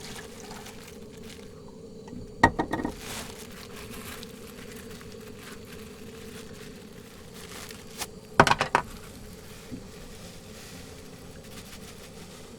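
Camping cookware and dishes clattering and clinking as they are handled, in two short bursts a few seconds apart, over a faint steady hum.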